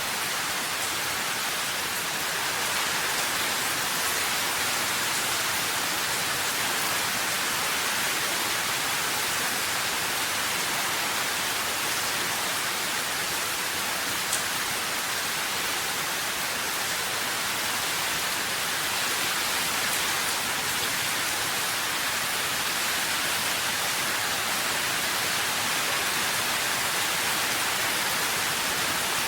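Steady rain, an even dense hiss with no distinct drops standing out and a faint tick or two partway through.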